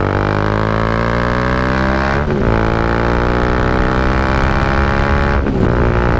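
Bajaj Dominar 400's single-cylinder engine through an SC Project aftermarket exhaust, accelerating hard through the gears. The pitch climbs, drops at an upshift about two seconds in, climbs again, and drops at another upshift near the end.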